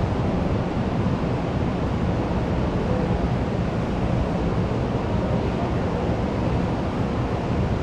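Steady background hubbub of a school canteen, a dense even rumble heaviest in the low end with no words picked out, and a few faint brief pings over it.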